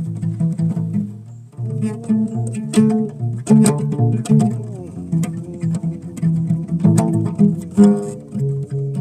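Bass played solo: a running line of plucked notes in a low register, with sharper accented notes now and then and a brief dip about a second and a half in.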